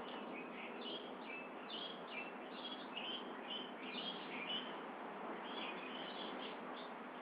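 Birds calling: a busy run of short, varied chirps and whistles, thinning out after about five seconds, over a steady hiss.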